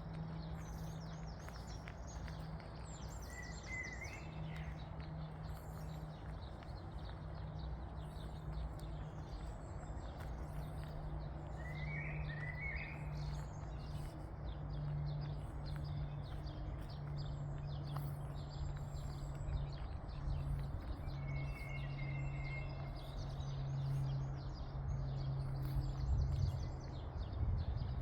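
Rural outdoor ambience: birds chirping now and then over a steady low hum and a constant high ticking. The low rumble grows near the end.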